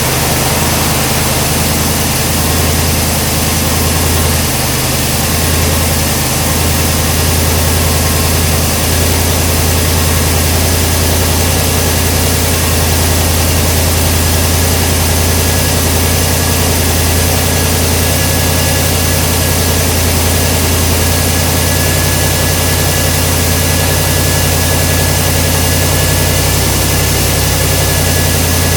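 1969 Buick 430 cubic-inch V8 with dual Quadrajet four-barrel carburetors idling after a cold start. The note wavers a little over the first several seconds, then holds steady.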